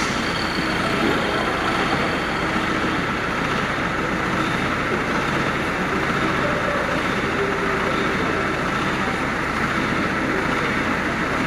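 Engine running steadily at idle, a continuous even mechanical noise with no changes in speed.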